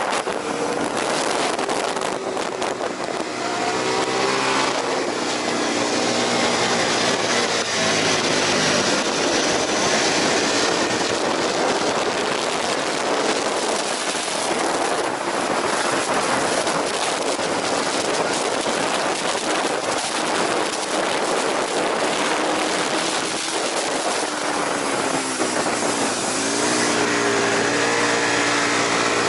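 Aprilia RSV 1000 Factory's V-twin engine running hard on track, under a heavy rush of wind noise. Its pitch drops and climbs again around three seconds in and once more near the end, as the bike slows for corners and accelerates out.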